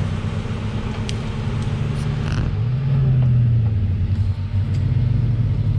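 Off-road 4x4's engine running under load, its pitch rising about two and a half seconds in and then holding, with a couple of light clicks early on.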